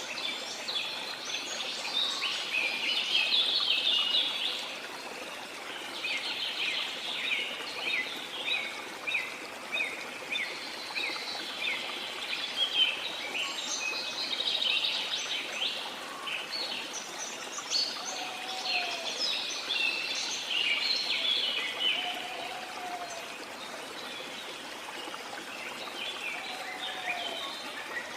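Small songbirds chirping busily in bouts over a steady rush of sea water. A lower, brief sliding call is heard three times in the second half.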